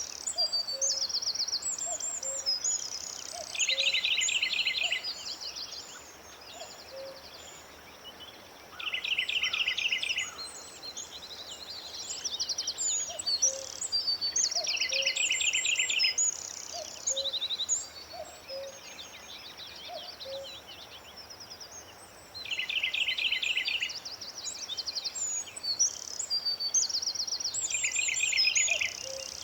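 Several birds singing and chirping: a rapid trill comes back about every five or six seconds, amid many short, higher chirps and whistles.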